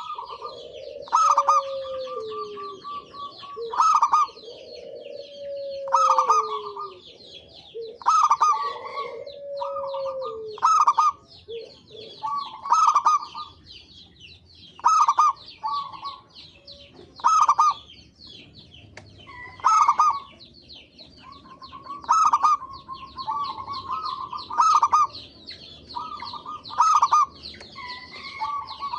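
Zebra dove (perkutut) cooing: short, loud phrases of rapid notes repeated about every two seconds, over a constant high twittering, with lower falling notes in the first ten seconds.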